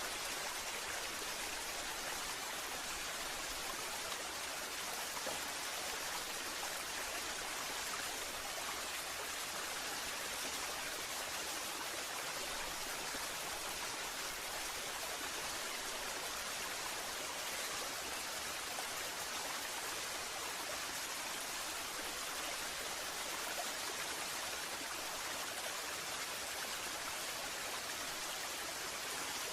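Waterfall: falling water splashing in a steady, even rush without let-up.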